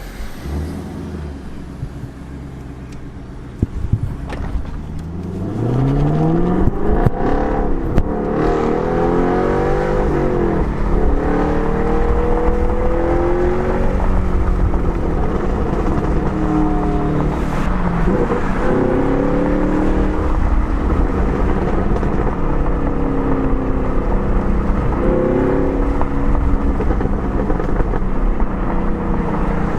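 2020 Camaro SS 1LE's 6.2-litre V8 exhaust under hard acceleration: about five seconds in the note gets much louder and climbs steeply in pitch, then rises and drops several times through gear changes and stays loud.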